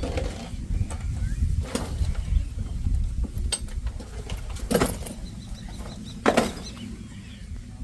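Wind rumbling on an outdoor microphone, with three sharp clicks, the loudest two near the middle and toward the end.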